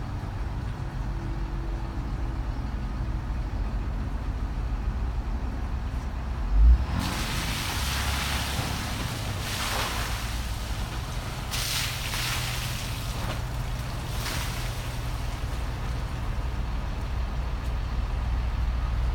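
A Ram 4500's 6.7-litre Cummins diesel engine running steadily with a low rumble. A single loud thump comes about a third of the way in, followed by several bursts of rushing, hissing noise.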